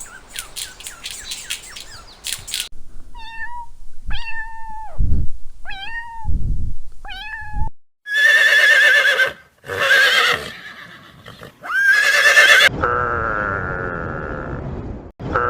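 A run of different animal calls. Quick chirps come first, then four short pitched calls with low thumps, then several long, loud, wavering calls and a steady held call near the end.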